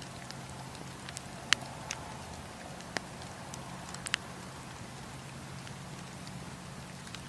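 Wood campfire burning with a steady hiss and a few sharp crackles and pops, the loudest about a second and a half in and a pair about four seconds in.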